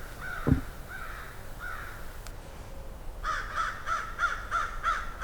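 Crows cawing: a few scattered caws, then a quick run of about seven caws, roughly three a second, in the last two seconds. A single low thump comes about half a second in.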